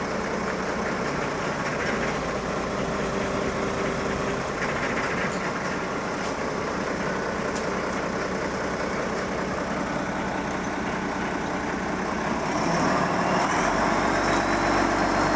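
A large engine running steadily, growing louder about twelve seconds in, with a faint rising whine near the end.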